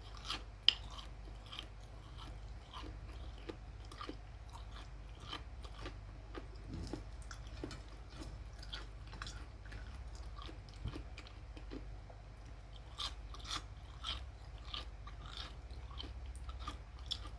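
Close-up chewing of crispy fried chicken: a steady run of small crackly crunches, with one sharper crunch about a second in and a busier stretch of crunching near the end.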